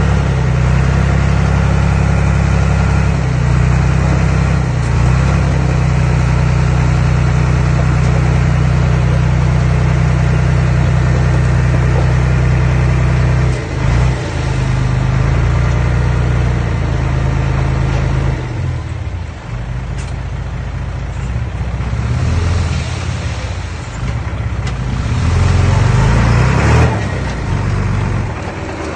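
Diesel engine of earthmoving machinery running steadily under load. About two-thirds of the way in it drops back, then works up again before falling off near the end.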